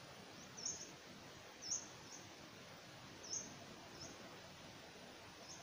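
A bird giving four or five short, high chirps spaced a second or two apart, over faint steady background noise.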